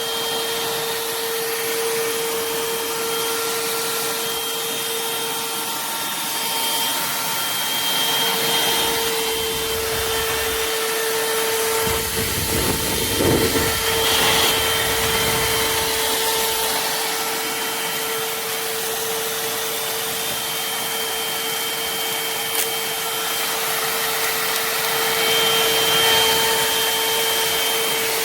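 Cordless handheld vacuum cleaner running steadily: a constant motor whine over an airy hiss. About twelve seconds in, a low rumble and rattle swells for a few seconds, then settles back.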